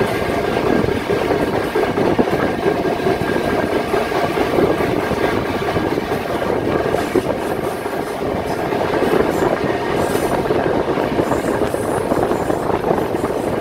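Steam train carriages running along the track, a steady loud noise of wheels on rails heard from aboard the train.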